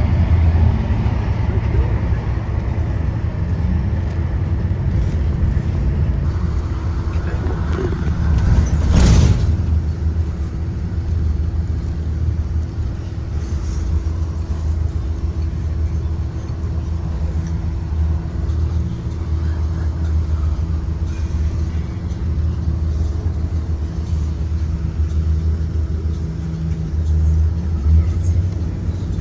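2023 Blue Bird Vision school bus driving, a steady low rumble of engine and road with a constant hum. A brief loud whoosh comes about nine seconds in.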